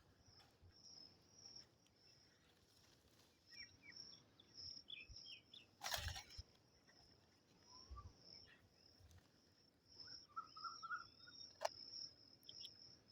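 Faint outdoor ambience: a steady high insect drone with scattered short bird chirps, and a louder knock about six seconds in.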